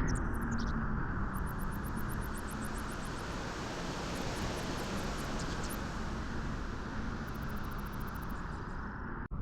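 Steady rushing wind at a beach, a dense low noise with no distinct events, which briefly cuts out for an instant near the end.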